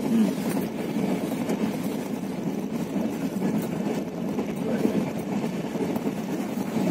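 Passenger train running at speed, a steady running noise of the coach on the track heard from inside the carriage through a closed window.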